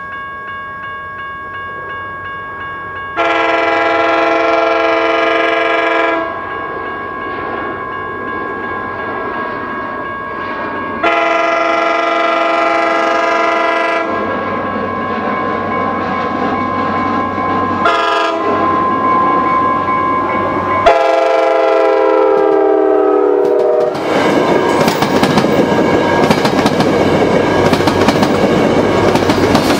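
New Mexico Rail Runner Express commuter train sounding its multi-note horn in the grade-crossing pattern of two long blasts, a short one and a long one, the last blast dipping in pitch. About 24 seconds in, its bi-level cars rush loudly past, the wheels clicking over the rail joints.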